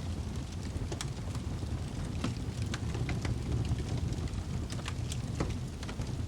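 Wood fire crackling in a fireplace: a steady low rumble of burning with irregular sharp pops and snaps scattered through it.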